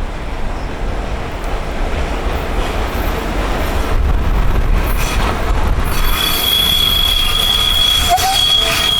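Train rolling through a railway station with a steady low rumble; about two-thirds of the way in, a high steady wheel squeal sets in and holds.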